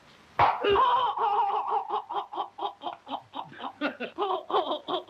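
A person's long, high-pitched laugh: a drawn-out first note, then a quick, even run of short 'ha' pulses, about four a second.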